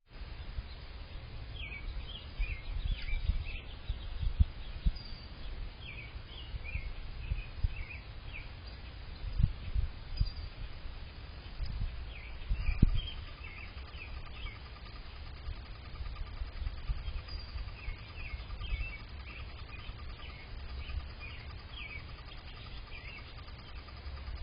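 Songbirds chirping in scattered runs of short, high notes, over a constant low rumble with a few louder thumps.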